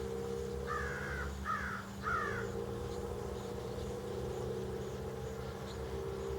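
A crow cawing three times in quick succession, harsh calls about half a second each, over a steady low hum.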